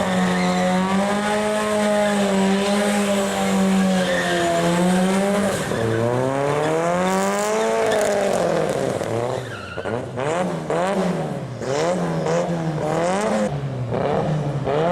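Car engine held at high revs, then revving up and down repeatedly about once a second, with tyre squeal, as a car is driven through a burnout or donuts.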